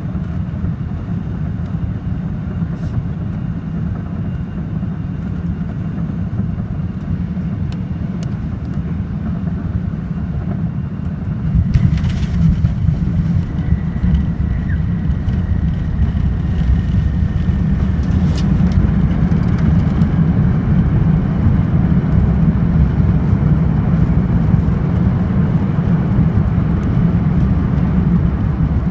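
Steady low cabin rumble inside a Lufthansa Airbus A380 during the arrival into Houston. There is a knock about twelve seconds in, after which the rumble grows louder.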